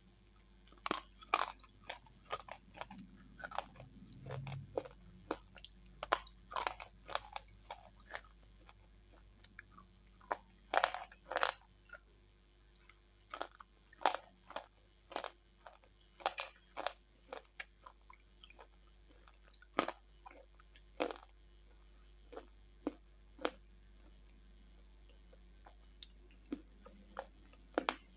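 Close-miked biting and chewing of slate pencils: sharp, brittle crunches at an irregular pace, sometimes several in quick succession.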